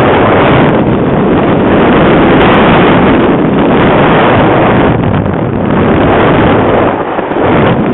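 Heavy, gusty wind buffeting the microphone: a loud, rough rush that eases briefly near the end.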